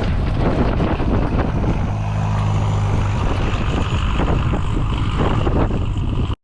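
Engine of a 1994 Toyota Surf 4x4 running steadily as it drives, a low hum under strong wind noise on the microphone.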